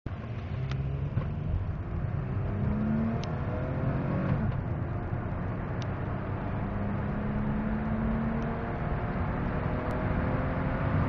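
Toyota Camry's 3.0-litre V6 accelerating hard through an automatic gearbox. The engine pitch climbs, drops at an upshift about four seconds in and again about eight seconds in, then climbs again.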